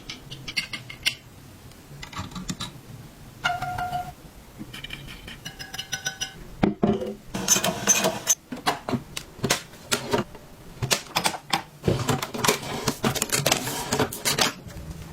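Rapid metallic clicks, taps and clatter of small metal parts being handled, with a couple of brief ringing tones a few seconds in, then denser clicking for the second half.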